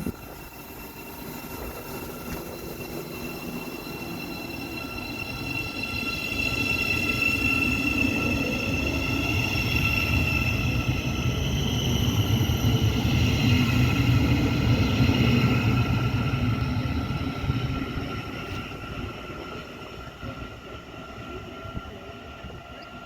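An electric passenger train passing, its rumble building to the loudest point about halfway and then fading away. High whining tones run through it, one of them sliding down in pitch as the train goes by.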